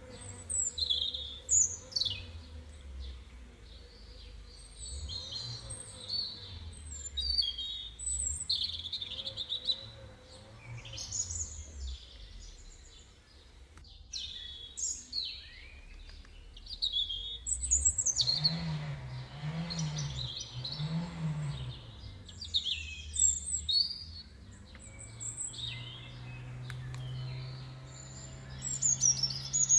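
Songbirds chirping and calling, many short high calls in quick succession, over a low rumble.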